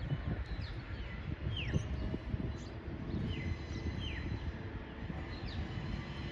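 Birds calling in short, quick falling chirps, about eight times, over a low steady rumble.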